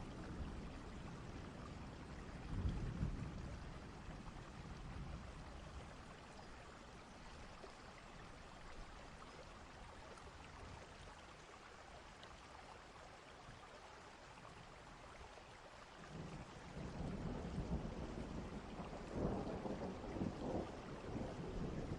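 Steady rain with distant thunder rumbling, a swell of thunder about three seconds in and a longer, stronger roll over the last few seconds.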